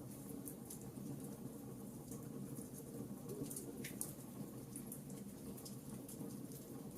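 Campfire burning: a steady low rush of flame with scattered sharp crackles and pops from the burning wood, one stronger snap about four seconds in.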